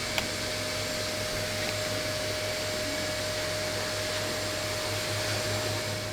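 A motor-driven machine runs steadily, a whirring rush with a constant mid-pitched whine and a low hum. It cuts out near the end.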